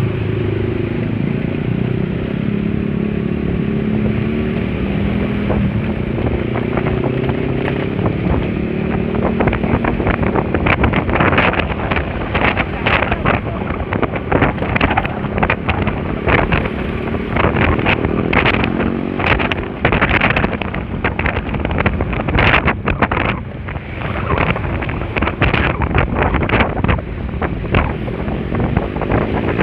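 Honda Spacy scooter's engine running while on the move, with wind buffeting the microphone in gusts from about a third of the way in.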